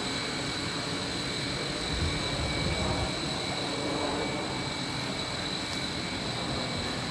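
Steady drone of running outdoor air-conditioning equipment, fan and compressor noise with a constant high-pitched whine over a low rumble.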